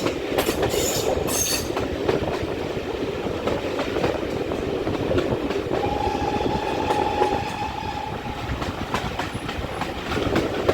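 Train running with a steady clickety-clack of wheels over rail joints. About six seconds in, the steam whistle of GWR Manor-class locomotive 7828 Odney Manor sounds one steady note for about two seconds, a warning for an unguarded level crossing.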